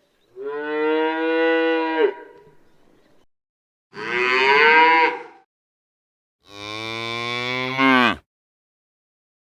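Cow mooing three times, each a long, low, drawn-out moo of about one and a half seconds with gaps between; the last one rises in pitch at its end.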